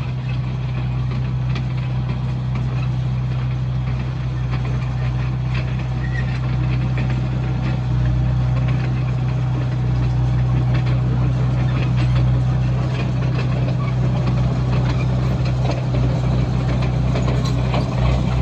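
Komatsu bulldozer's diesel engine running steadily, with scattered clanks and rattles over its low hum, getting a little louder in the second half.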